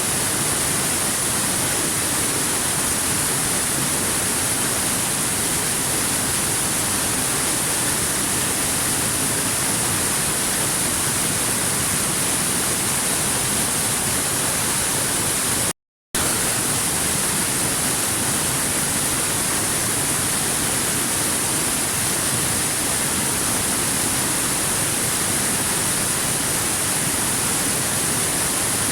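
Steady, even rushing of a waterfall, with a bright hiss on top, cutting out completely for a split second about halfway through and then carrying on unchanged.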